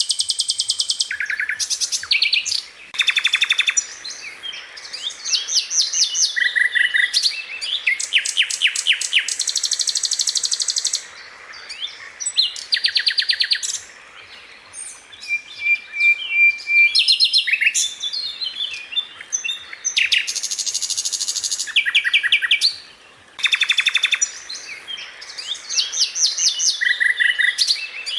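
Sikatan londo flycatcher singing a string of high, fast rattling trills ('roll') and sharp burst phrases ('tembakan'), one after another with short pauses between them.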